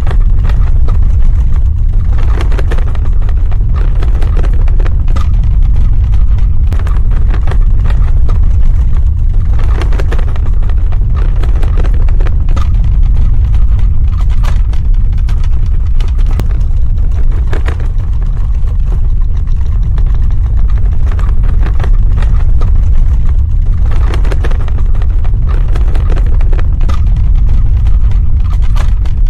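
Earthquake sound effect: a loud, continuous deep rumble with many small cracks and rattles on top, swelling in a few stronger clusters along the way.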